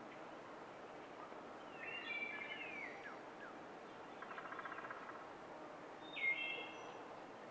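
Wild birds calling over a steady background hiss: a chattering call about two seconds in, a rapid trill around the middle, and a louder short call near the end.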